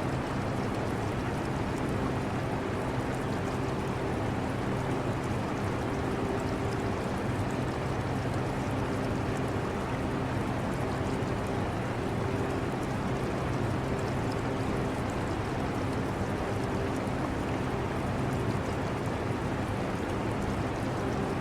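Air conditioner running steadily with a low hum that comes and goes, mixed with the trickle and bubbling of aquarium water.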